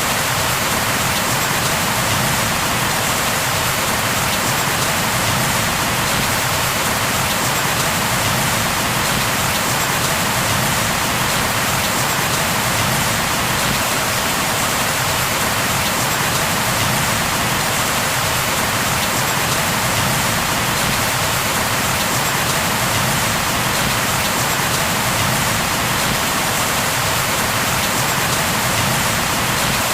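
Steady, heavy rain falling on a surface: an even, unbroken hiss of dense raindrops.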